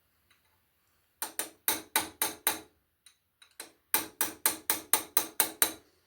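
Hammer tapping a small chisel to knock back the locking tabs on an engine's main bearing cap bolts: sharp metallic taps, a run of six, a single tap, then a run of eight at about four a second.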